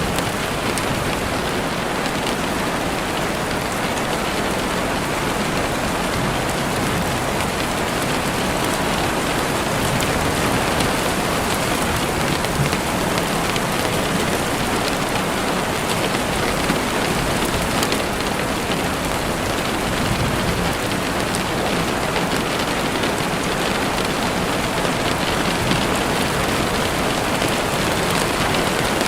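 Heavy rain falling steadily on a window, a dense even hiss with fine drop ticks.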